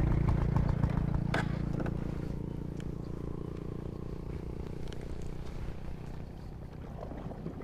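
An engine running with a steady low hum that fades away as it moves off, with a sharp click about a second and a half in.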